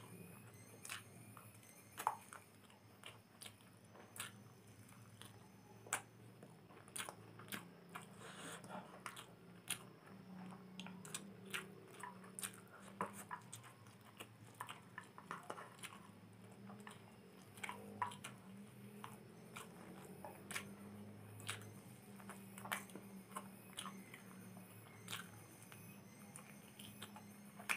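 Close-up mouth sounds of a person eating instant noodles by hand: chewing, with many sharp wet clicks and smacks, over a faint steady low hum.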